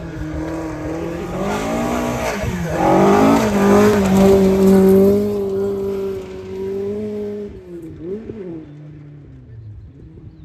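Rally car engine coming through at speed: a couple of quick gear changes, then one held high note, loudest about four seconds in. The note then fades away, with a brief blip of revs near the end.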